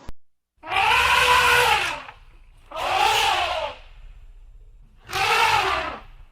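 An animal calling three times, each call about a second long, rising and then falling in pitch, with a harsh, noisy edge.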